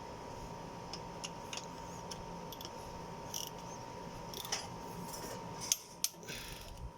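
Scattered light metallic clicks and taps from a torque wrench and socket working the cylinder head bolts of a Toyota 1NZ-FE engine, tightened to 22 foot-pounds in sequence.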